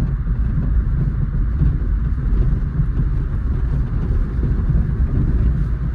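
Maruti Suzuki A-Star heard from inside the cabin while driving over an interlocking brick road: steady low road and tyre rumble with faint scattered rattles from the body. The owner traces the rattling to loose door visors whose tape has come off, knocking against the doors.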